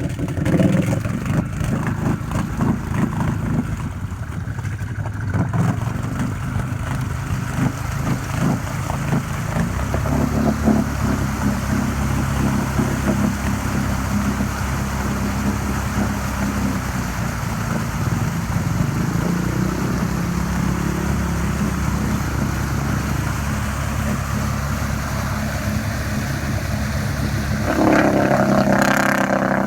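Off-road vehicle engine running under load, holding a steady note through the middle and revving up louder near the end.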